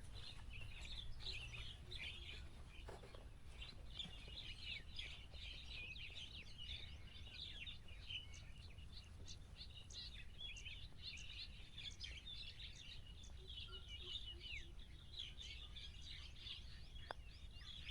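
Faint chorus of small birds chirping continuously, many short calls overlapping, over a steady low background rumble.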